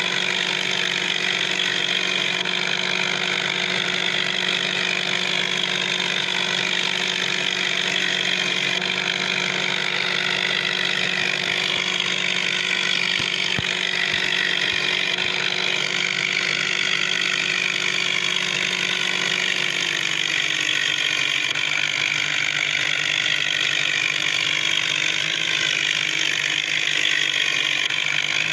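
Vehicle engine running steadily at a constant speed, its pitch dropping slightly about twenty seconds in.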